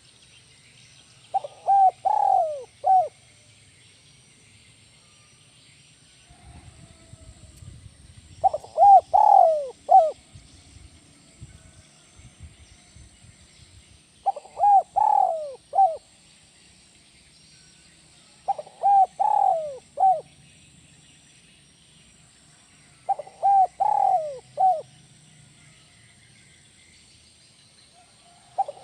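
A spotted dove (tekukur) cooing its song five times, about every five seconds. Each phrase is a short run of coos closed by a single detached 'kuk' note, the 'kuk 1' song style.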